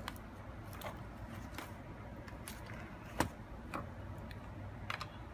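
Irregular light clicks and taps from hands and tools working on the plastic case of an HP Pavilion g6 laptop as it is taken apart. The sharpest click comes about three seconds in.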